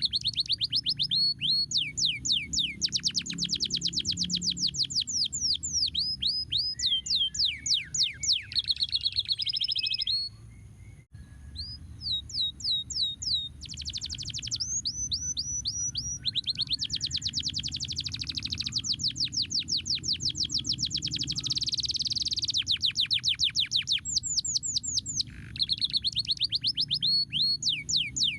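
Domestic canary singing: fast rolling trills of rapidly repeated downward-sweeping notes, broken by a short pause about ten seconds in, over a steady low hum.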